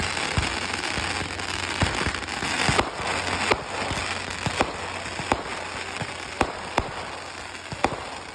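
Fireworks going off: a dense crackling that thins after about three seconds, punctuated by a string of sharp bangs roughly a second apart.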